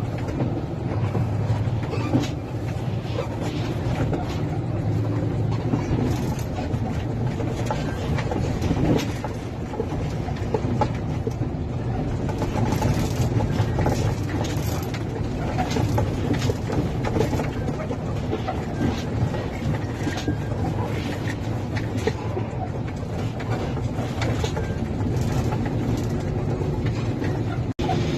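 Dump truck engine running steadily, with frequent short knocks and rattles through it.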